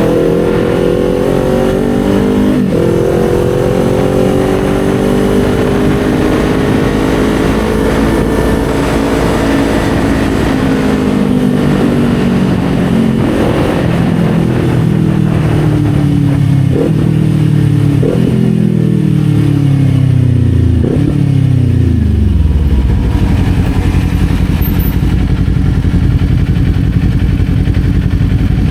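Kawasaki Z400's 399 cc parallel-twin engine heard from the rider's position. It pulls with slowly rising revs, holds, then winds down over about ten seconds with a few short blips or clicks as it slows. It then settles to a low, steady note near idle.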